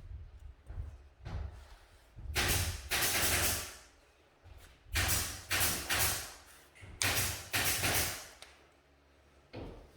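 Three rounds of hard scraping strokes, each of about three strokes, with short pauses between them.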